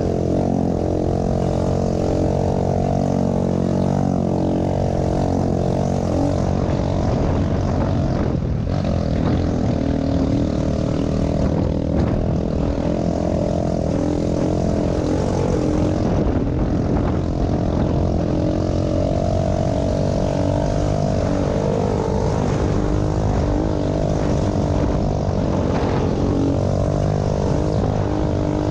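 Small pit bike engine running steadily at fairly constant revs, its pitch wavering slightly as the throttle changes.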